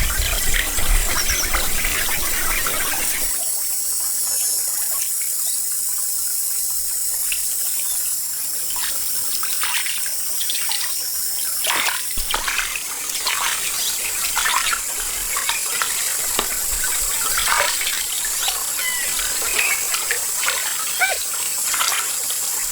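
Pond water splashing as someone wades and works by hand through the shallows. It is heavy for the first three seconds or so, then gives way to scattered small splashes and drips over a steady high hiss.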